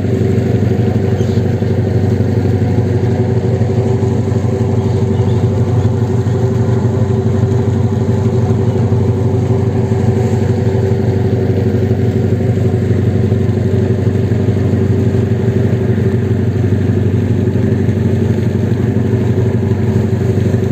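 An engine running steadily at a constant speed, a low, even hum with no change in pitch or loudness.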